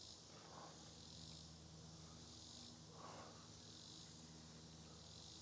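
Faint chorus of insects in summer woods, a shrill buzz swelling and fading about every second and a half, with two soft rustles.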